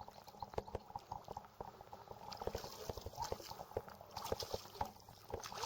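Small irregular splashes and sloshing of river water, many quick ticks in no steady rhythm.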